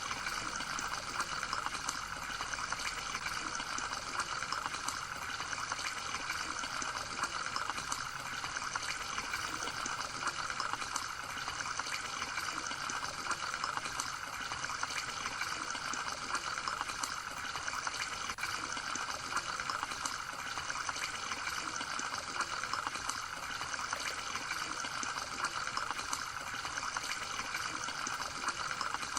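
Water trickling and splashing steadily without a break.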